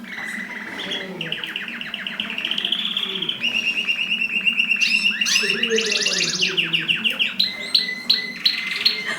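Mosaic canary singing a long song of fast trills, each a rapid run of repeated notes, switching to a new trill every second or so.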